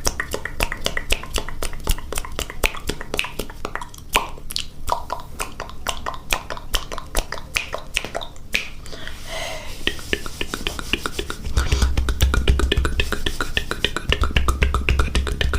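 ASMR mouth sounds: rapid wet clicks and pops of lips and tongue close to the microphone, quickening in the second half. A low rumble sits underneath in the last few seconds.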